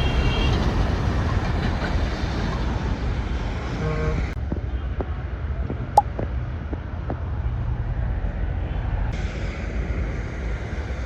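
Steady street traffic noise, with one short, sharp click or pip about six seconds in.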